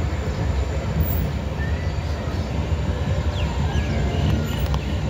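Steady low rumble of an Indian Railways Jan Shatabdi Express passenger train rolling slowly out of a station, heard from the coach's open doorway.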